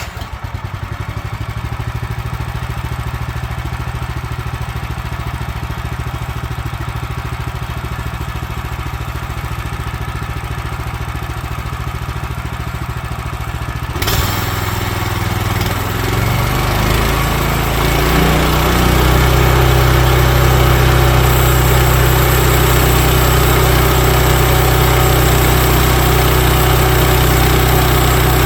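Woodland Mills HM130Max sawmill engine, just started, idling steadily, then about halfway through throttling up over a few seconds and settling into a louder, steady full-speed run.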